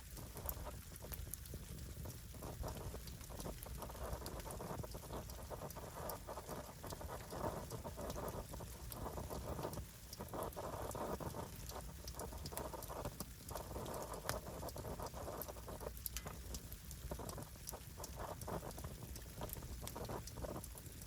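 Wood fire burning, with a steady stream of small sharp crackles and pops over a shifting hiss.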